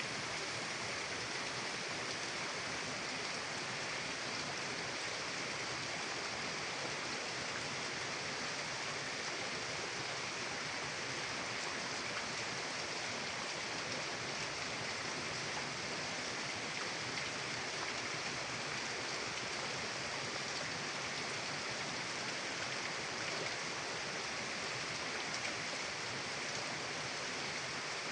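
Mountain river flowing: a steady, even rush of water with no change in level.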